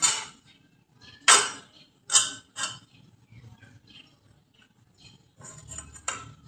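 Metal parts or tools clinking and clanking: about five sharp knocks with short ringing tails, three of them close together in the first seconds and one more near the end.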